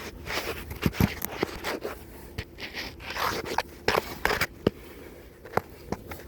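Hands and tools scraping, rustling and clicking against parts while reaching into a cramped forklift motor compartment: a run of short scrapes and sharp clicks that thins out after about five seconds.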